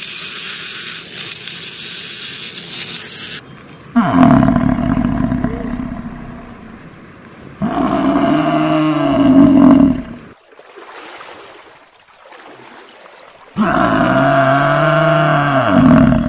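Cow mooing three times, each moo long and loud with a rise and fall in pitch, after a steady hiss in the first few seconds.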